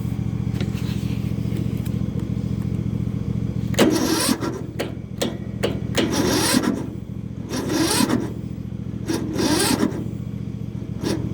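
Yard Machines riding mower's starter cranking the choked engine in several short bursts, about a second each, without it catching; the owner thinks the battery is too weak. A steady engine idle runs underneath.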